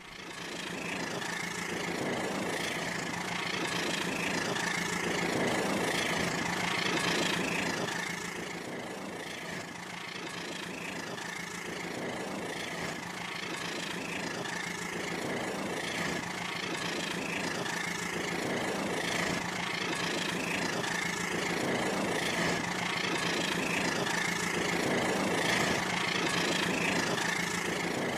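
Rail King battery-powered toy train running on its track: a steady electric motor hum with a regular pulse about once a second.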